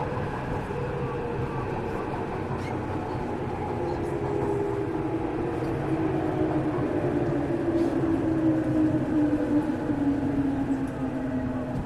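Tokyu 1000 series electric train heard from inside a motor car as it runs, with wheel and rail rumble. The traction motor and inverter whine falls steadily in pitch through the second half as the train slows down.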